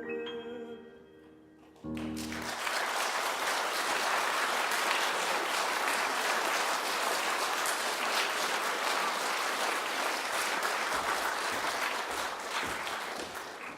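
The last notes of a song's piano accompaniment ring out and a final chord sounds about two seconds in. Then an audience applauds steadily, fading away near the end.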